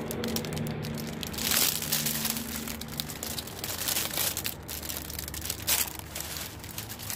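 Plastic bags and packaging rustling and crinkling as items are handled and sorted, with a few louder crunches. A low steady hum sits underneath for the first few seconds.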